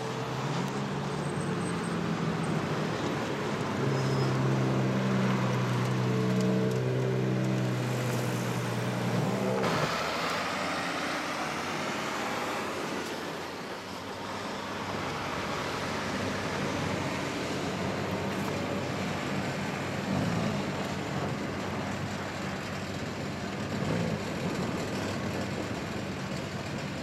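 Car engines running: a steady engine note for the first ten seconds, then after an abrupt change a broad road and traffic noise, with engine sound briefly rising twice later on.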